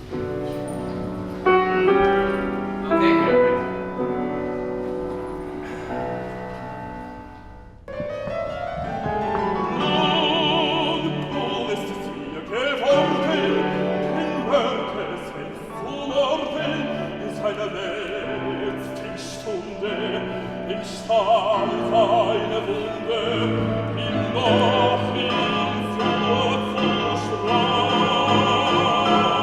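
Operatic singing with a wide vibrato over instrumental accompaniment. The accompaniment plays alone at first and drops quiet, then the voice comes in about eight seconds in.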